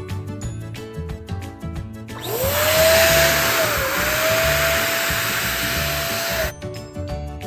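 An electric balloon pump inflates a balloon for about four seconds, starting about two seconds in: its motor whine rises quickly and then holds steady, with one brief dip partway through, over a loud rush of air, and it cuts off suddenly. Background music with a steady beat plays throughout.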